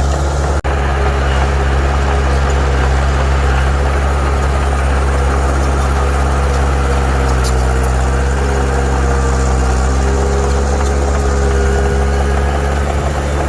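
Heavy diesel engine of earthmoving machinery running steadily at a constant speed, with a momentary break in the sound just after the start.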